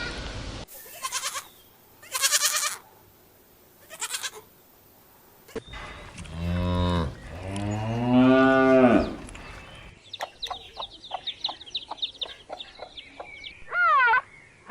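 A run of farm animal calls: three short, high bleats, then two long, pitched calls, the first deep like a cow's moo. After that comes a quick string of chirps, and near the end a single arched call like a cat's meow.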